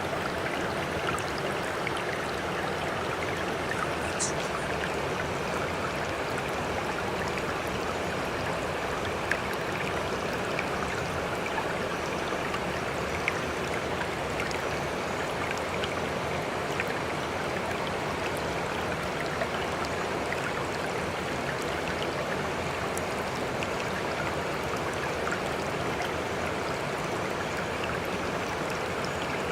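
Sea water making a steady, even wash of noise with no rise and fall of breaking waves, dotted with faint small drips and ticks.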